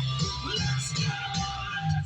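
Music played over Bluetooth through a newly installed car-stereo head unit and the speakers of a travel trailer, with a steady bass line.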